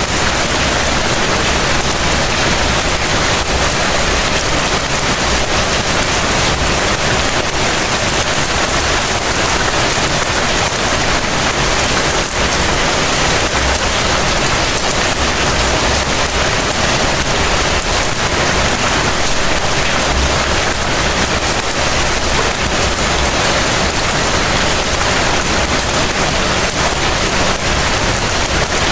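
Heavy rain falling steadily, an even dense hiss, with a low rumble swelling underneath now and then.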